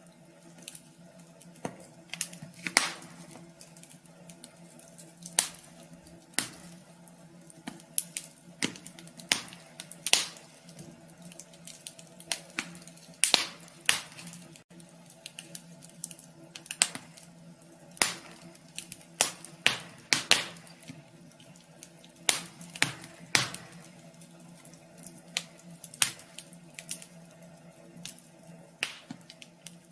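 Wood fire crackling in a wood stove: irregular sharp pops and snaps, a few to several every couple of seconds, over a faint steady low hum.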